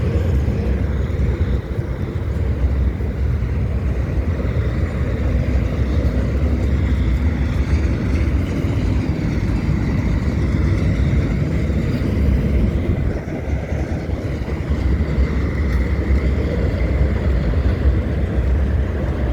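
CSX mixed freight train rolling past on a bridge: a loud, steady low rumble of the cars going by.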